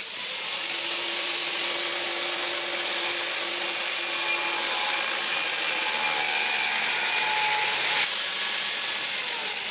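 Power tool grinding steel: a steady, unbroken hiss of abrasive on metal, which changes slightly about eight seconds in.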